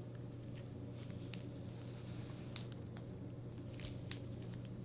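Faint scattered clicks and soft rustles of handlebar tape being wrapped around a bicycle handlebar by hand, over a steady low hum, with one sharper tick about a second and a half in.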